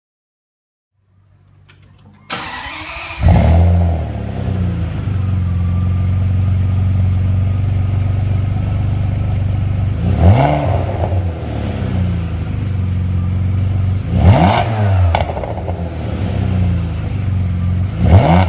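Ferrari 612's V12 starting through a stainless-steel Quicksilver aftermarket exhaust: it cranks, catches with a loud flare, then settles to a steady idle. It is blipped three times, each a short rise and fall in revs.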